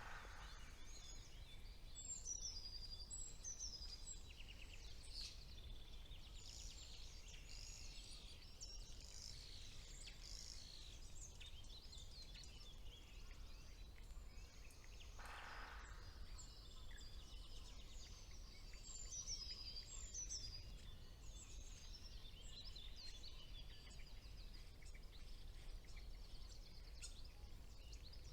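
Several songbirds singing at once in a spring woodland, a faint, busy mix of quick high chirps and trills. A short, lower, rasping call cuts in about halfway through, over a steady low rumble.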